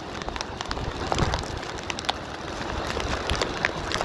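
Wind-driven rain: many small, sharp drop hits scattered over a steady hiss, with a low rumble of gusty wind buffeting the microphone.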